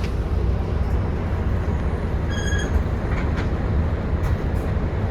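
Volvo B9TL double-decker bus running, heard from on board as a steady deep rumble of engine and road. A short electronic beep sounds once about two and a half seconds in.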